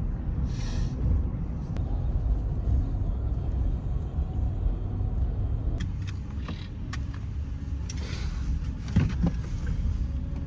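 Steady low rumble of a motor vehicle running, with a few sharp clicks partway through and a brief rustling noise near the end.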